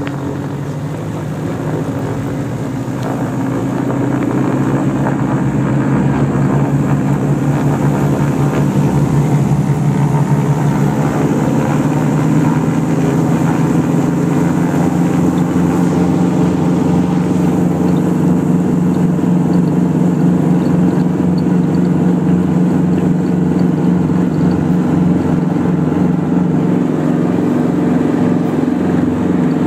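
Piston engines of a light twin-engine airplane running up. Their pitch and loudness climb over the first few seconds, then hold at a steady high power.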